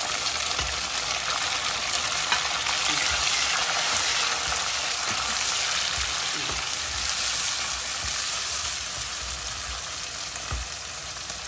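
Chopped tomatoes, green chillies and ginger-garlic paste sizzling steadily in hot oil with browned onions in a kadhai, stirred with a spatula that scrapes and now and then knocks against the pan.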